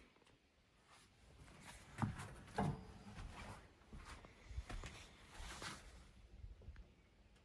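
Faint, scattered knocks and clatters of tools and parts being handled, with two sharper knocks about two seconds in and a short scrape a little later.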